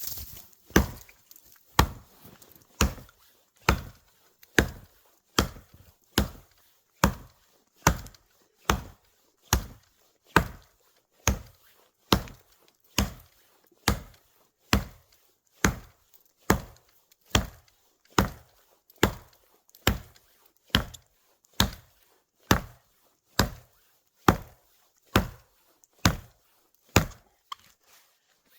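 Wood being chopped with steady, evenly paced strikes, a sharp chop a little more than once a second, about thirty in a row.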